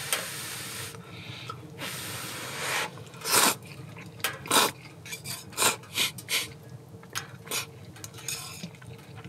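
Pot of miso ramen broth simmering on a camp stove, with noodles slipped in from a metal cup at the start. Irregular short bubbling splashes over a steady hiss.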